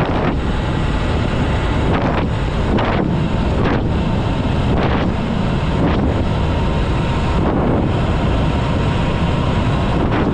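Wind buffeting the microphone of a rider on a moving electric dirt bike, a loud steady rush with a few gusty flares. Underneath runs a faint thin whine that climbs slightly toward the end.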